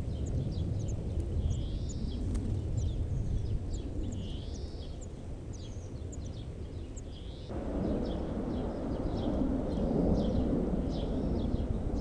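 High, thin bird chirps, several a second, over a low rumble that is the loudest sound and grows louder about seven and a half seconds in.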